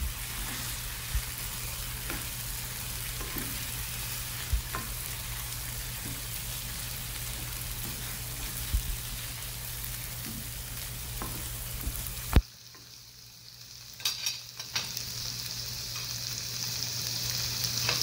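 Bheja (brain) frying with onion masala in a non-stick pan: a steady sizzle with scattered knocks and scrapes of a spatula stirring it. About twelve seconds in, a sharp knock and the sizzle drops away suddenly, coming back a second or two later.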